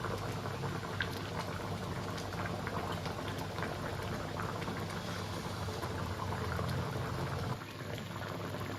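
Chicken curry with coconut milk bubbling at a steady simmer in a pot, with many small pops; it turns a little quieter near the end.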